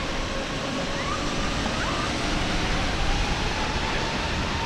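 Jet engines of a passenger airliner at takeoff power, heard from behind in the jet blast: a steady, loud rushing roar with a faint whine drifting slightly in pitch.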